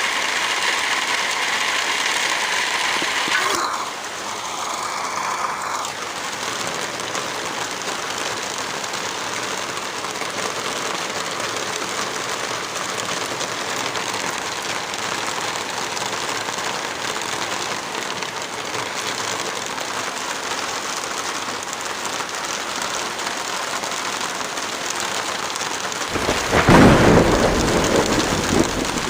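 Steady heavy rain, with a deep thunder rumble that swells near the end and fades. Early on a steady hum with a few held tones runs under the rain and stops about three and a half seconds in.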